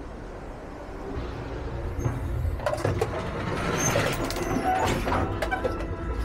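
Amtrak passenger train in motion, heard from inside the carriages: a steady low rumble that grows louder from about two seconds in, with clattering and rattling.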